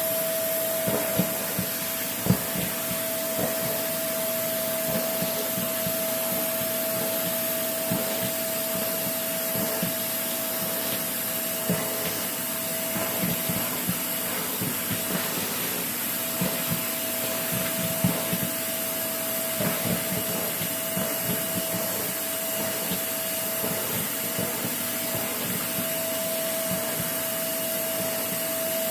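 Vacuum cleaner running steadily with a constant pitched whine, sucking crisp puffs off a bed. Scattered clicks and rattles come as pieces are drawn up the nozzle, the sharpest about two seconds in.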